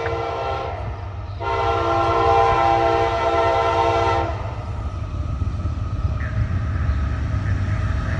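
Lead GE diesel locomotive's multi-chime air horn sounding a short blast, then a long blast of about three seconds, typical of the end of a grade-crossing signal. After the horn stops, the train's low diesel rumble and rolling noise go on as it passes.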